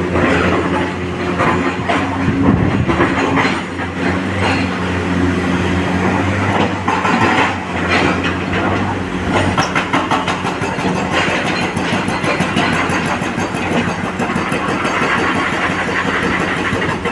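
Excavator engine running steadily under load, with repeated knocks as the machine digs. The engine's steady hum changes about halfway through.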